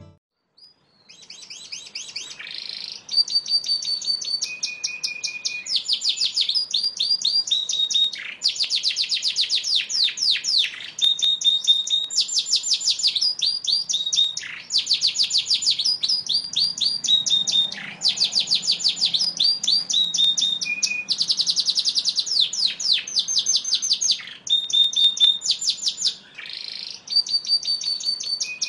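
Yorkshire canary singing a long, loud song of rapid trills alternating with steady held whistled notes at several pitches. It starts about a second in and runs on with only brief pauses.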